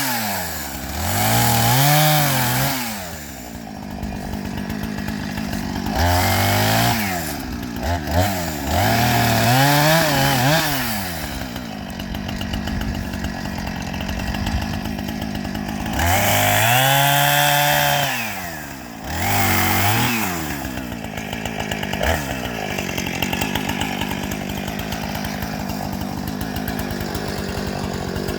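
Two-stroke chainsaw revved up and down in repeated bursts, with steadier stretches where it runs under load while cutting wood.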